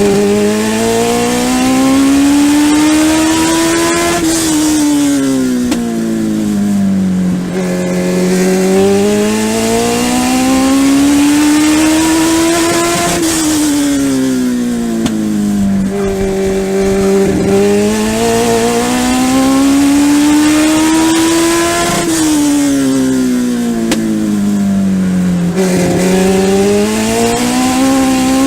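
Legend race car's Yamaha motorcycle-derived four-cylinder engine heard onboard, lapping a short oval: the engine note climbs steadily down each straight, then drops as the driver lifts for the turn, three times over.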